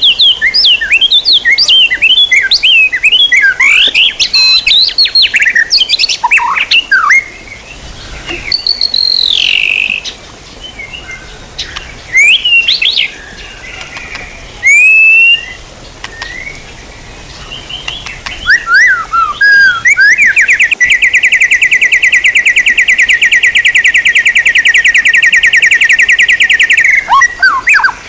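Songbird song: a quick run of varied whistled notes and chirps, then scattered single calls with gaps, then one long, very fast trill held for about seven seconds near the end.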